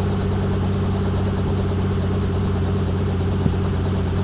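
Piston-engine helicopter running steadily on the ground, its engine held at RPM to cool down before shutdown, so the engine and rotor make an even drone. A brief click comes about three and a half seconds in.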